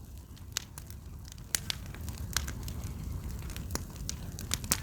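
A large bonfire of scrap burning hard: a steady low rumble of flames, with irregular sharp crackles and pops.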